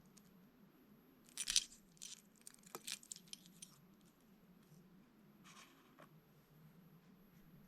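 Handling noises from unboxing a crankbait lure: short crinkles and clicks of plastic packaging, in two bursts, the louder one about a second and a half in.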